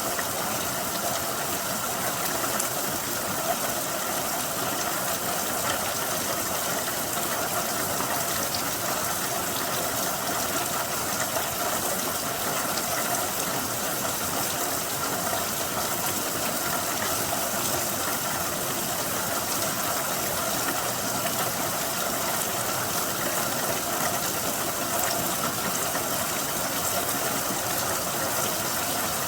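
Steady rain, an even unbroken hiss of falling drops.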